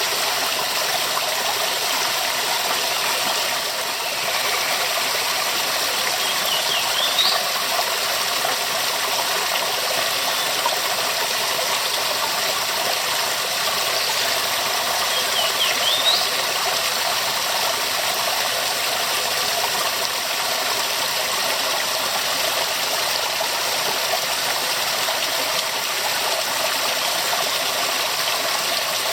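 Waterfall rushing in a steady, even roar of falling water. Two brief high chirps sound over it, about a quarter of the way in and again near the middle.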